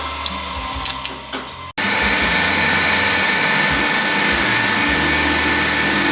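Metalworking power tool running steadily with a few light clicks. About two seconds in the sound cuts off abruptly and a louder steady machining noise with a whine takes over.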